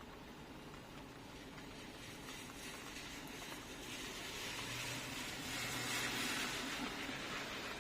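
Faint steady hiss of rain outside. A vehicle passes on the wet road: its tyre swish swells about four seconds in, with a low engine hum, and fades near the end.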